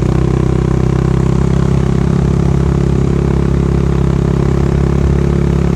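A vehicle engine running at a steady, unchanging speed.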